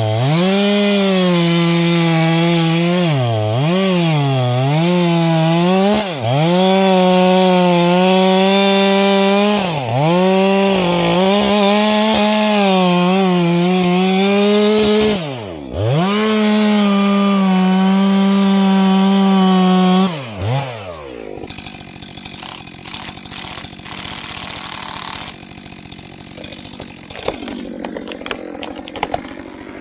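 Two-stroke chainsaw running at high revs as it cuts into a thick trunk. The engine pitch dips sharply and recovers about six times as the chain bogs down in the wood. About 21 seconds in the engine drops away, leaving quieter noise with scattered knocks.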